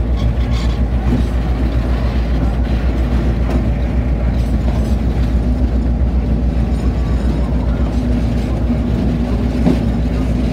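A moving train heard at the coupling between a locomotive and the car behind it: a steady, loud rolling rumble of wheels on rail, with a few sharp clicks.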